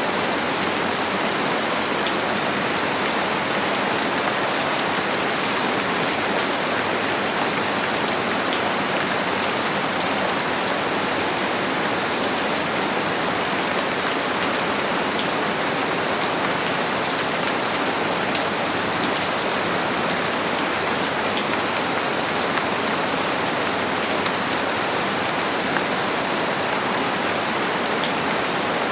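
Steady rain falling on a surface, a constant hiss of rainfall with many fine drop patters, at an even level throughout.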